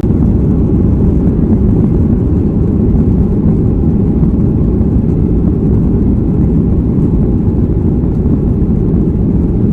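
Steady low rumble of a Boeing 737-300's engines and airflow heard inside the passenger cabin, starting suddenly and holding even throughout.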